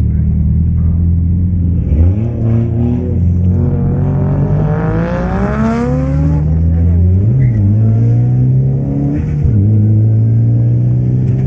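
Car engine accelerating: its pitch climbs for several seconds, drops at a gear change about seven seconds in, then holds steady.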